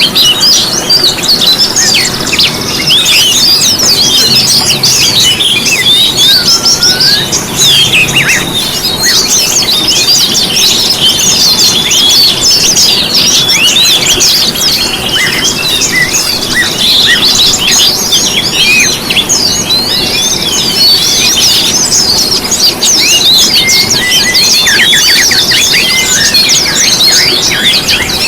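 Many small songbirds chirping and twittering at once, a dense, overlapping chatter of quick high trills and whistles that never pauses.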